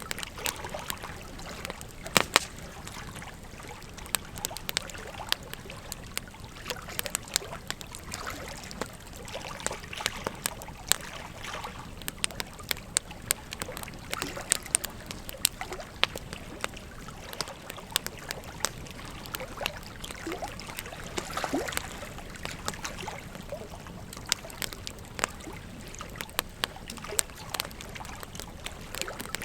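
Wood fire crackling, with frequent sharp irregular pops, over the steady rush of a flowing river.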